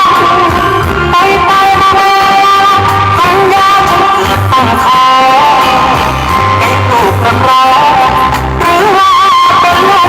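Loud music with singing and electric guitar, heavy bass pulsing underneath, played over a big show sound system.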